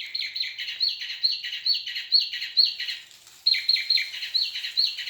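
Recorded bird song played from a Wild Republic Audubon plush bird's built-in sound box: a quick run of high, repeated downslurred chirps, a brief pause about three seconds in, then a second run.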